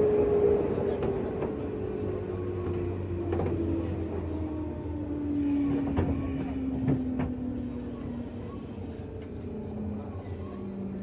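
JR West 201 series electric train heard from inside a motor car as it slows into a station: the traction motor whine falls steadily in pitch while the train decelerates, with a few sharp clicks from the wheels over rail joints.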